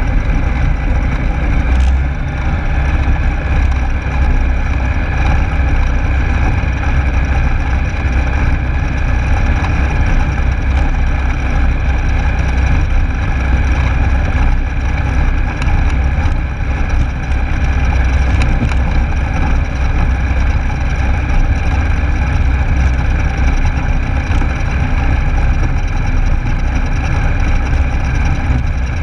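Rotax 912S engine of a Rans Coyote S6 ultralight running steadily, heard from on board the aircraft.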